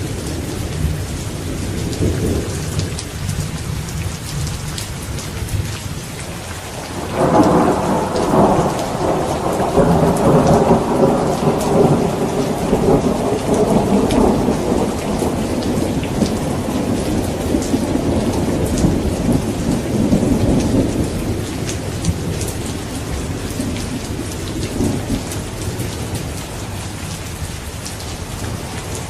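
Steady rain with a roll of thunder that breaks in suddenly about seven seconds in and rumbles on, slowly fading over about fifteen seconds.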